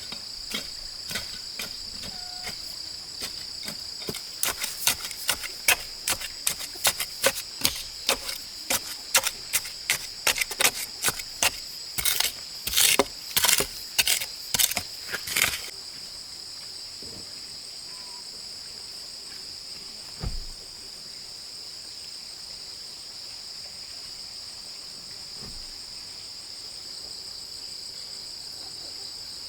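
Insects chirring in a steady high drone, with a run of sharp knocks, roughly two a second, over the first half. The knocks end in a burst of heavier strokes and then stop, leaving only the insects.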